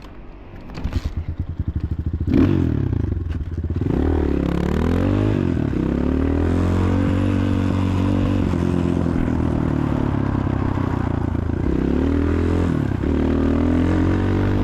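Progasi Super Max 250 enduro motorcycle engine: a couple of seconds of low, rhythmic chugging, then a loud burst of throttle about two seconds in. It revs up and down and then runs steadily under load, as the bike is ridden off, with small rises and falls in pitch.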